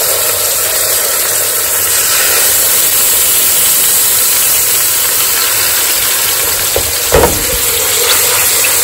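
Monkfish fillets frying in hot olive oil and garlic in a metal pan: a steady, loud sizzle. A short knock against the pan about seven seconds in.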